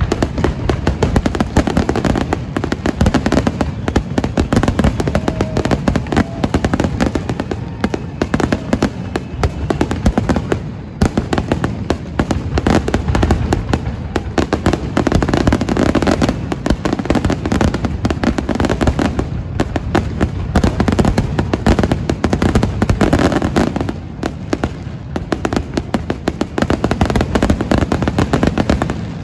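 Fireworks display going off in dense, rapid succession: booms and crackling bursts layered over each other, very loud, with a couple of brief lulls.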